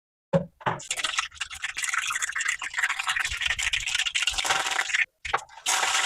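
Rapid, continuous scraping of a kitchen utensil against a bowl, as in whisking a batter. It cuts off suddenly about five seconds in, and a second short burst of the same scraping follows near the end.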